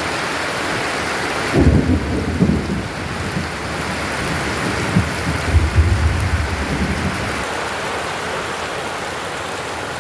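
Heavy rain pouring steadily, with thunder rumbling in low swells that break in suddenly about a second and a half in and come again a few seconds later.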